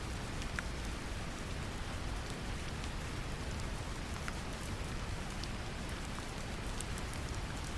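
Brown noise, a steady deep rumble, mixed with gentle rain: an even hiss with scattered light drop ticks.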